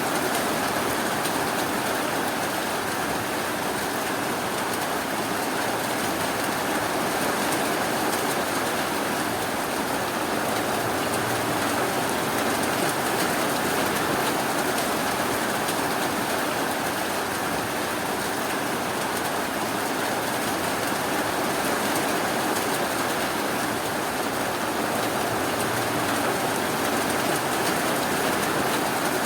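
Steady rainfall, an even hiss that holds unchanged throughout with no separate drips or thunder standing out.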